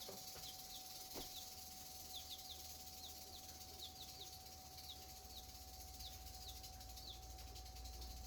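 Feeder chicken chick peeping faintly: short, high, falling peeps in twos and threes, repeated every second or so. A faint steady hum runs underneath.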